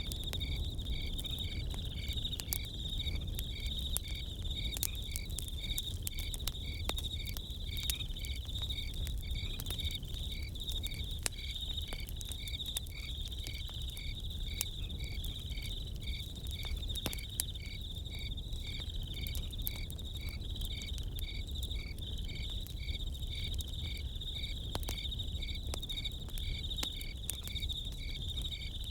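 Crickets chirping in a steady, even pulse of about two or three chirps a second over a continuous high insect trill, with sharp crackles and pops of a campfire scattered throughout and a low steady rumble underneath.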